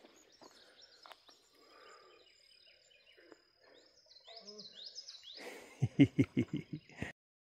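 Outdoor wildlife calls: a thin steady high note with a run of quick falling bird notes about four seconds in, then a loud run of about eight low, pulsed calls near the end before the sound cuts off abruptly.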